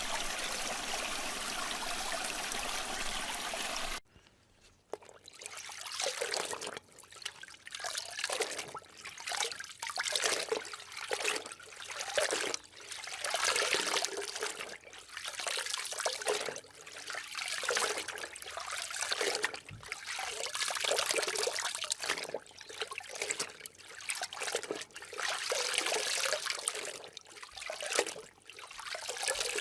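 Water sound effects. First a steady rush of water, which cuts off abruptly about four seconds in. Then, after a brief pause, water trickling and gurgling in irregular surges of about a second each.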